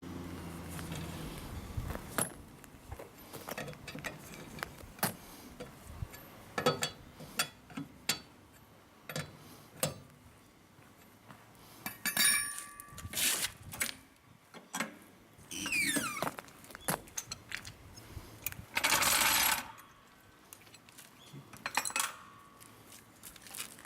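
Scattered metal clinks and knocks from wheel nuts and hand tools being handled during a tyre change, with a short burst of noise about nineteen seconds in.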